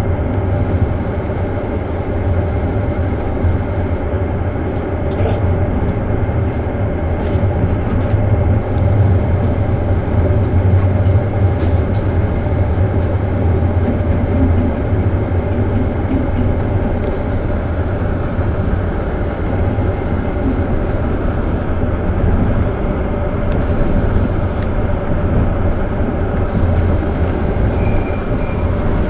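Inside a moving passenger railway carriage: a steady low rumble of wheels on track with a faint hum, and scattered sharp clicks and rattles. The train is running in toward a station.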